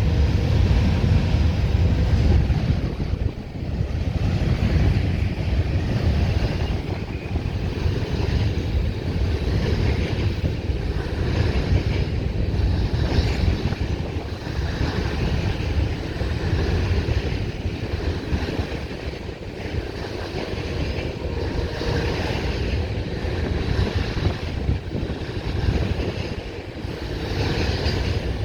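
Freight train of hopper cars rolling past, a steady rumble of steel wheels on the rails.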